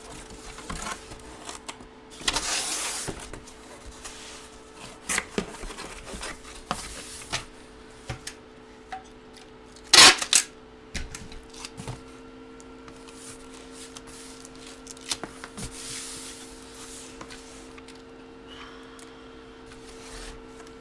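Hands handling a large photo and its paper and plastic packaging: rustling, short scrapes and scattered clicks, with one loud sharp click about ten seconds in. A steady low electrical hum lies underneath.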